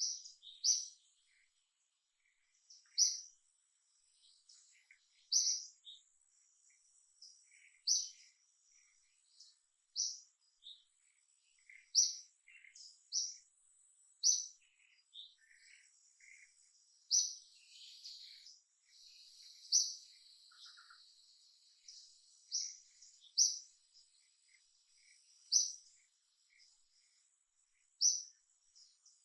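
Bird chirping: short, high single chirps repeating every two to three seconds, over a faint steady insect drone that swells into a buzz for several seconds in the middle.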